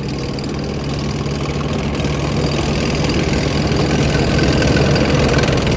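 Tank engine sound effect running steadily, starting abruptly and growing slightly louder.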